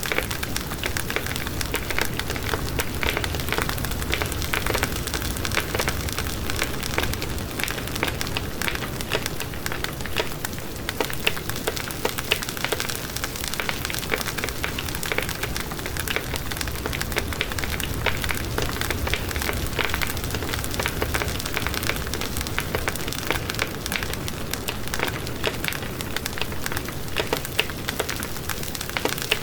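Wood fire in a fireplace, crackling steadily: dense small pops and snaps over a soft rushing hiss of flame.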